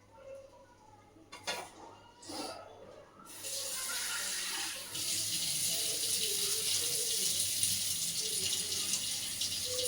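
Water running steadily from about three seconds in, after a couple of brief knocks, being added to a too-thick rice-flour paste to thin it.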